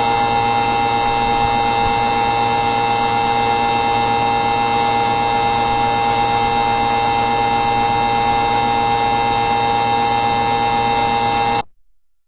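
A loud, steady buzzing hum made of several fixed tones that cuts off suddenly near the end.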